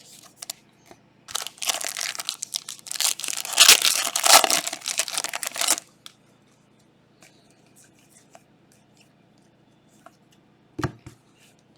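A trading card pack's wrapper being torn open, crinkling and ripping for about four and a half seconds from about a second in, followed by light handling and a brief knock near the end.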